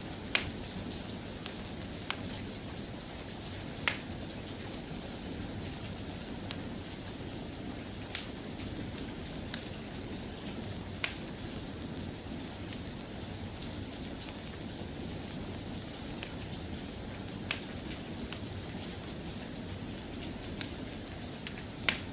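Steady rain falling, with a sharp single pop or tick every few seconds.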